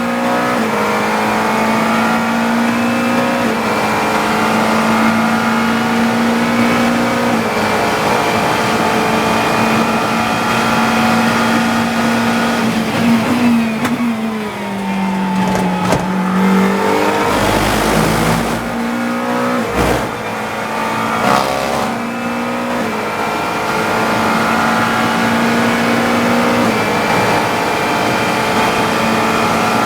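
GT3 race car engine heard from the cockpit, held at a steady high pitch at full throttle, dropping in pitch through downshifts about halfway through with a few sharp knocks, then climbing back to a steady high note.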